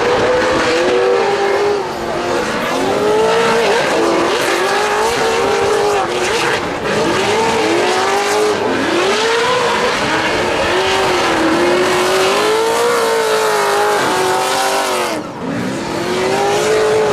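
Drift cars' engines revving hard, the pitch swinging up and down again and again as the throttle is worked, with tyres squealing. There is a short dip about 15 seconds in before the engine note climbs again.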